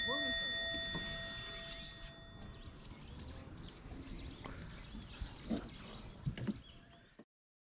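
Small birds chirping repeatedly around a pond, with a ringing tone at the start that dies away over about two seconds; the sound then drops out to silence about seven seconds in.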